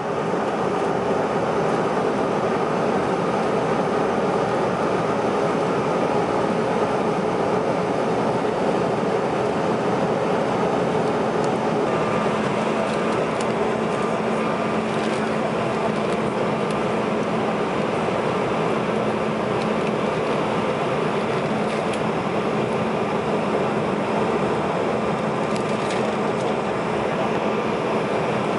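Steady cabin noise of a CRJ-900 regional jet on approach: airflow and the hum of its rear-mounted turbofans. About twelve seconds in, a steady low hum and a higher tone join in.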